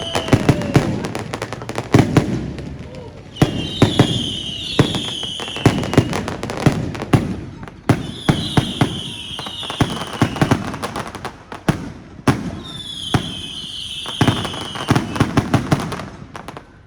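Aerial fireworks going off in repeated salvos, about every four and a half seconds. Each salvo is a high fizzing hiss followed by a quick run of sharp bangs and crackling pops.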